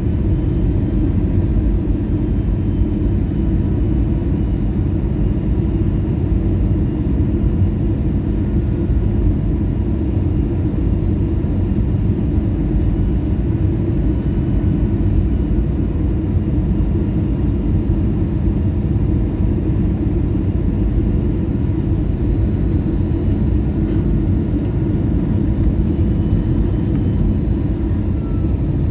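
Steady low rumble inside an Airbus A320-214's cabin in flight: its CFM56 jet engines and the airflow past the fuselage, with a few faint steady tones and no sudden changes.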